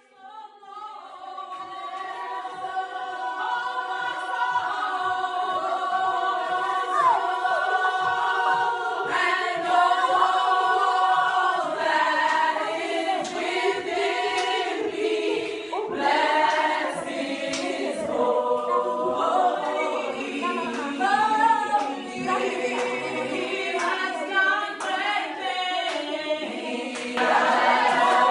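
A choir of voices singing a worship song together in harmony, with a soft low beat about twice a second underneath.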